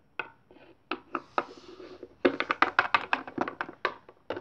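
Small plastic toy figures tapped on a hard surface to act out walking: a few scattered taps, then a quick run of taps about six or seven a second starting a little past halfway.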